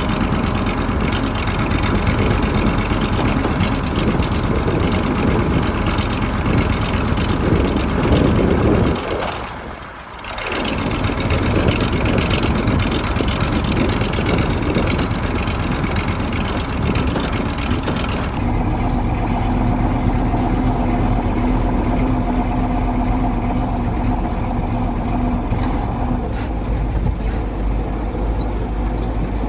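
1985 KAMAZ 4310 6x6 military truck's V8 diesel running steadily as the truck drives off-road. The sound dips briefly about nine seconds in, then changes character about eighteen seconds in, when a steady hum comes through.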